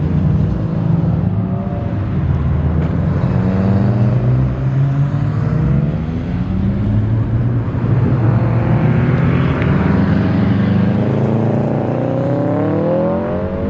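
Turbocharged EJ20 flat-four of a bug-eye Subaru Impreza WRX running under load while being driven, its pitch rising and falling with the revs and climbing steadily near the end as it accelerates.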